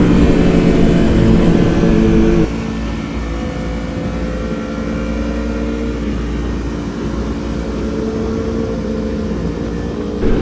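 Superbike engines running steadily, loud at first, then abruptly quieter about two and a half seconds in, jumping back up again near the end.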